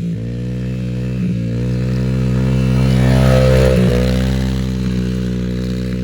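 Yamaha TT-R110 dirt bike's small single-cylinder four-stroke engine running at a steady pitch, growing louder to a peak about three and a half seconds in, then easing off again.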